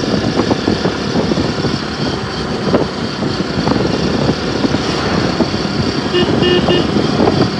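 Riding on a motorcycle: a steady rush of wind and road noise. About six seconds in, a vehicle horn gives a few short beeps.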